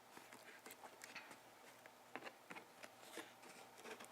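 Faint, scattered soft clicks from chewing candy in the mouth, a few isolated ticks over a near-silent background.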